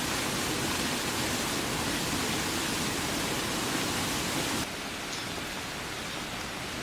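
Heavy rain falling steadily as an even hiss, dropping abruptly to a quieter level about two-thirds of the way through.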